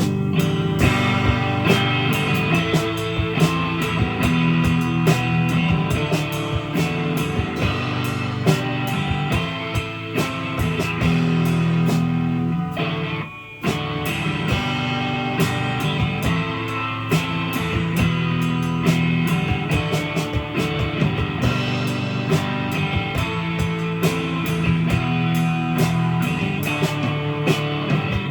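Live rock band playing an instrumental stretch between sung lines: guitar over a drum kit, with a short stop about halfway through before the band comes back in.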